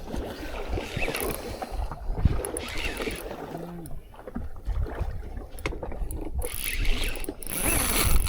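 Water sloshing and slapping around a small boat at sea, with scattered clicks and knocks.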